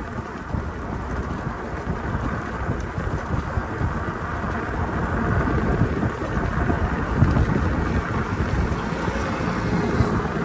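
Wind buffeting the microphone of a rider on a moving bicycle, a steady gusty rumble with road noise underneath, slowly getting louder.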